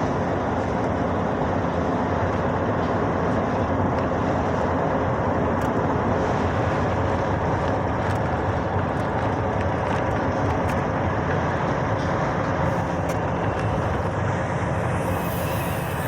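Truck on the move: steady engine and road noise that holds an even level throughout.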